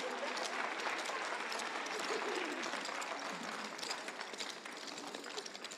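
Theatre audience applauding, with a few voices calling out, fading down near the end.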